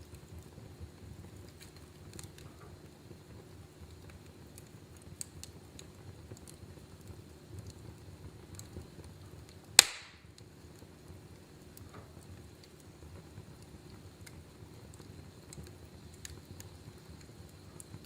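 Wood fire crackling in a fireplace: a steady low noise of the burning with scattered faint crackles, and one loud sharp pop about ten seconds in.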